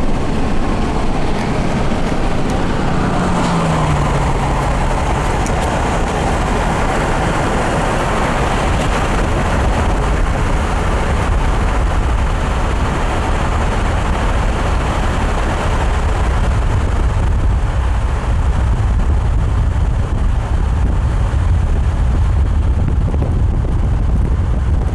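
Steady road noise of a car driving: a constant low rumble with hiss over it, and a short falling hum about three seconds in.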